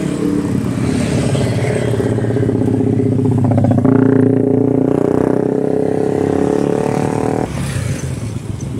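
Motorcycle engine running along a road. Its note grows louder from about four seconds in, then drops away sharply near the end.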